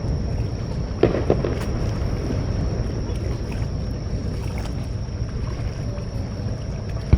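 Waves washing at the shoreline with wind, a steady low rumble, broken by two short sharp bangs from the fireworks display about a second in and another near the end.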